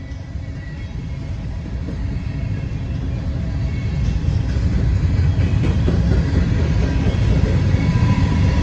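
Norfolk Southern freight train passing close by: a deep rumble that grows louder over the first few seconds, then holds steady. A thin high squeal comes in near the end.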